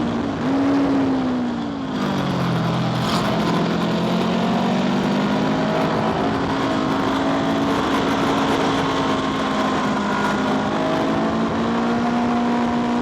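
Motorcycle engine running while riding, with wind noise over it; the engine note drops about two seconds in as the revs fall, then holds steady.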